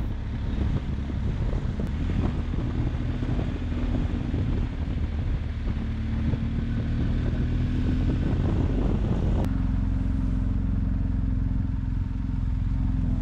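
BMW R 1250 GS Adventure's boxer-twin engine running steadily while riding, with road and wind noise; the higher noise thins out about nine and a half seconds in.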